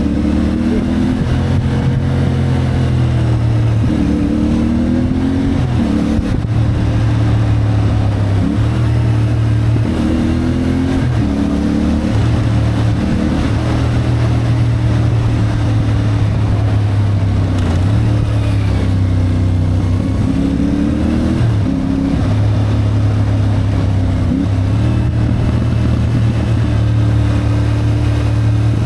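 CFMoto 450MT's parallel-twin engine under way, its pitch climbing and dropping back every few seconds as the throttle opens and closes, over a steady rush of wind and road noise.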